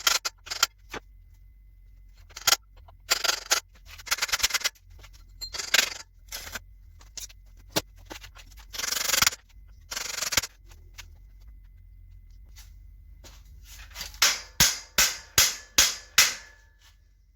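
Metal tools clicking and clattering against bicycle parts while seized components are worked loose, with a stretch of rapid ratchet-like clicking. Near the end come six sharp metallic knocks in quick, even succession.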